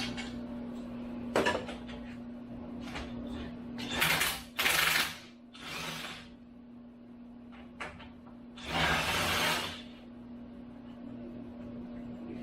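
Hand-tool work on a Bridgeport milling machine's head bolts: a few sharp metallic clicks and knocks, and three short rushing, hissy noises about 4, 6 and 9 seconds in, over a steady electrical hum.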